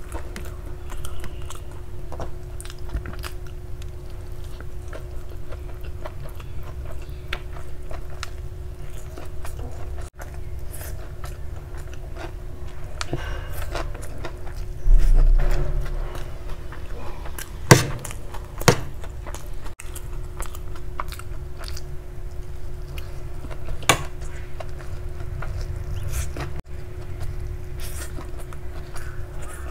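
Close-miked chewing and biting of honey garlic chicken noodles, with small wet mouth clicks throughout. A loud low thump comes about halfway, followed by a few sharp clicks.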